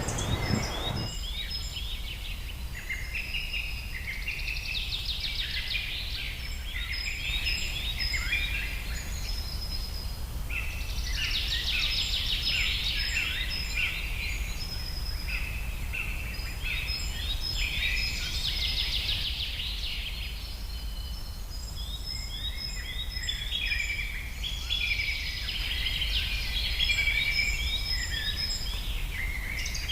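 A flock of birds chirping and calling together, many short high calls and quick trills overlapping, over a steady low rumble; a brief rustling noise in the first second.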